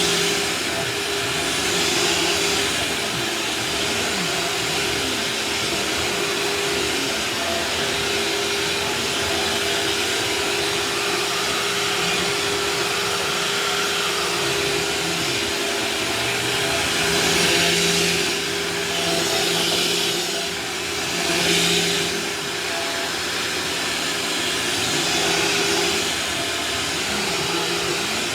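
Vacuum cleaner running steadily, its motor hum under a rushing airflow that swells louder for a moment several times, mostly in the second half.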